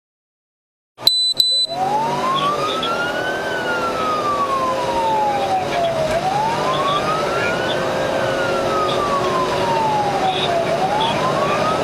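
Police car siren on a slow wail, rising and falling about every four and a half seconds, over steady road and engine noise. It starts about a second in, just after a couple of clicks and a short high beep.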